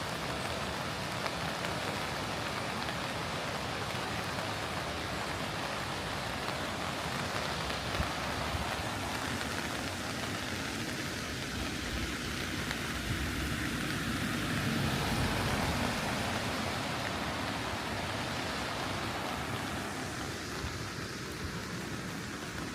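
Steady rain falling as an even hiss. About halfway through, a low rumble swells for a few seconds and then fades.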